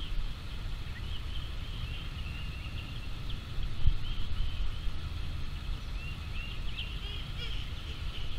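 Birds chirping off and on over a steady low rumble of wind on the microphone, with a single soft knock about four seconds in.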